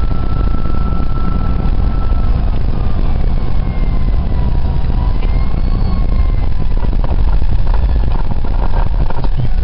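Steady low rumble of a car's engine and road noise, with a distant fire engine siren wailing faintly over it, its pitch slowly falling and rising before it fades out.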